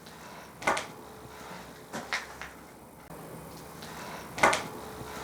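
Sharp knocks in three groups: a double knock under a second in, two more at about two seconds, and the loudest double knock at about four and a half seconds. They sound as if they come from inside the room, and their source is unexplained.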